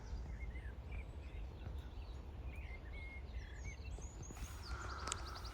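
Small birds chirping faintly and intermittently over a low, steady outdoor rumble.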